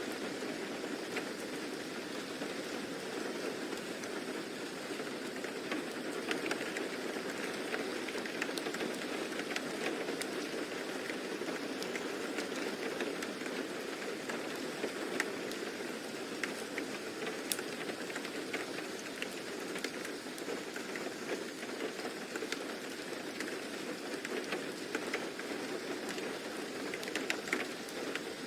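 Steady rain, with scattered faint ticks of drops landing.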